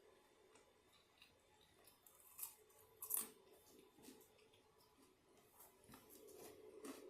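Quiet kitchen handling sounds during food prep: scattered soft clicks and a sharp snip-like sound about three seconds in, over a faint steady hum that grows a little louder near the end.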